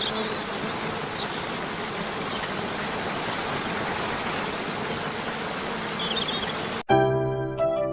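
Steady rushing noise, like running water, with a few faint short high chirps. It cuts off suddenly near the end and piano music begins.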